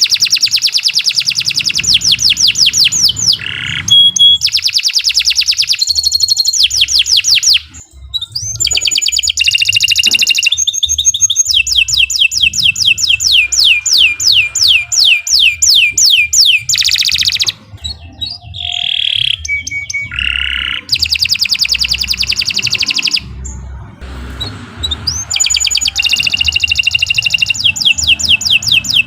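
Domestic canary singing a long song of fast trills, each a run of rapid repeated high notes, moving from one trill to the next with only brief pauses.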